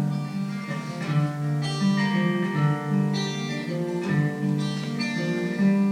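Acoustic guitar playing an instrumental passage between sung verses, with notes changing about every half second.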